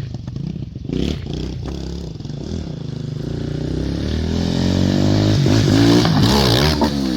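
Pit bike engine accelerating, its pitch climbing steadily for a few seconds, then wavering up and down near the end.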